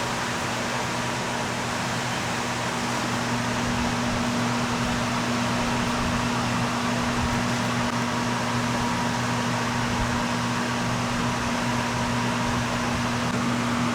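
Steady whoosh of an electric fan or ventilation motor, with a constant low hum under it.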